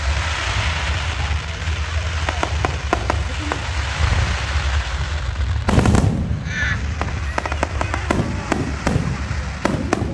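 Fireworks going off: a run of sharp crackling pops, with one big bang about six seconds in that echoes briefly.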